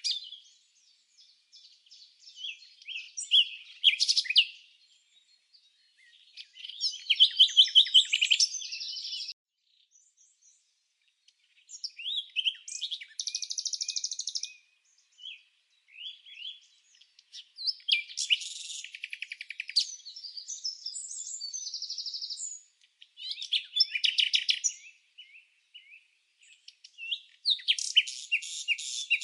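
Songbird singing in repeated bursts of rapid high chirps and trills, each phrase lasting one to three seconds, with short silent gaps between phrases.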